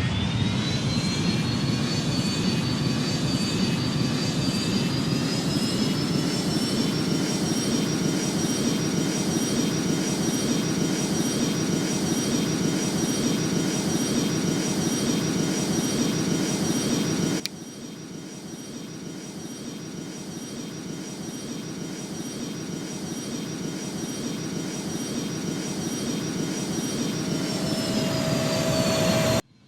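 Boeing 737 jet engines spooling up for takeoff: a high whine climbs in pitch over the first several seconds and then holds steady over a loud rumble. About two-thirds of the way through, the rumble drops abruptly and then slowly builds again, and near the end the whine sags slightly in pitch before the sound cuts off.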